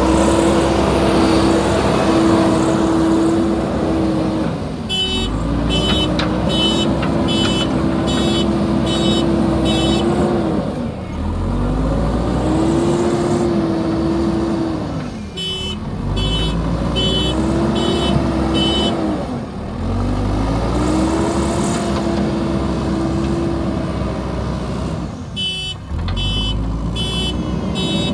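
JCB backhoe loader's diesel engine revving up under load and dropping back again, over and over as it works. Three times it is joined by an electronic beeper sounding about one and a half beeps a second, typical of a reversing alarm.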